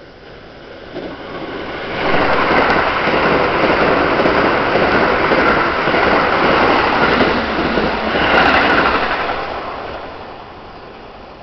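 Keikyū electric train passing through the station at speed, its wheels running on the rails. The noise builds as it approaches, stays loud for about seven seconds while the cars go by, and fades near the end.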